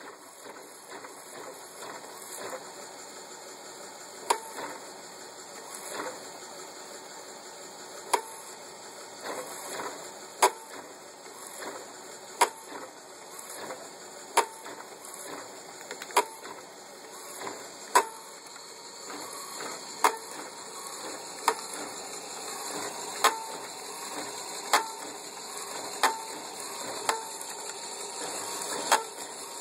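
A sharp mechanical click with a short ring repeats about every two seconds, coming a little faster toward the end, over a steady hiss.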